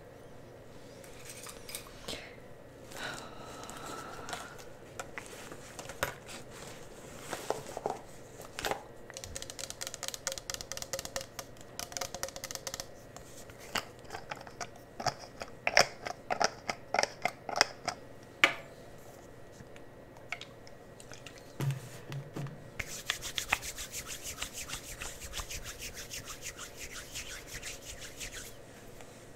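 Close-miked cosmetic products and applicators being handled: scattered clicks, taps and scratchy rubbing, with a cluster of sharper, louder clicks in the middle and a fast, even run of fine ticks near the end.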